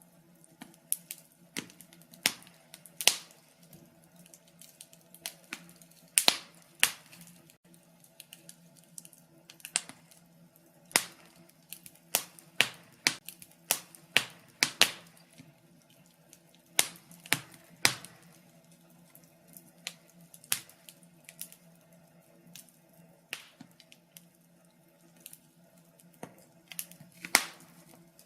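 Wood fire crackling in a fireplace: irregular sharp pops and snaps, a few loud ones among many small ones, over a faint steady low hum.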